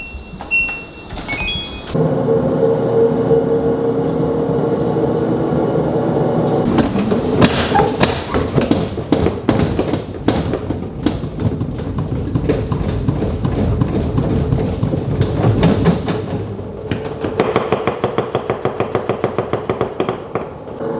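Aging washing machine running, with a steady motor hum joined by irregular knocks and rattles. Near the end these settle into a fast regular thumping of about four beats a second.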